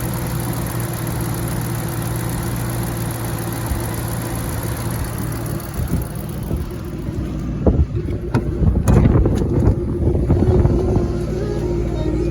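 Shelby GT500 V8 idling steadily after a cold start. From a little past halfway, irregular knocks and louder uneven rumbling come in over the engine.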